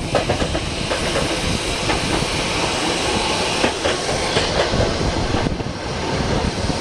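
Heritage electric tramcar running along its track, heard on board: a steady running noise with wheels clicking over the rail joints and the car body rattling. A high hiss eases off about five and a half seconds in.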